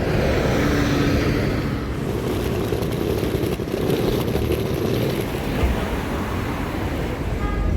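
Steady, dense rumble and hiss of vehicle traffic noise.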